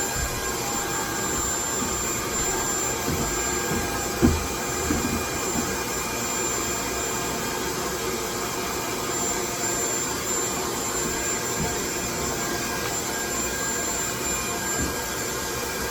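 Loud, steady machine-like rushing noise played as white noise, with faint steady whining tones over it. A few low knocks, the loudest about four seconds in.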